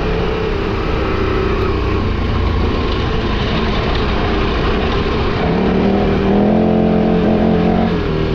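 KTM 1290 Super Adventure R's V-twin engine running on a steep dirt climb over rough, noisy riding sound. The revs rise about five and a half seconds in, get louder, and drop back near the end.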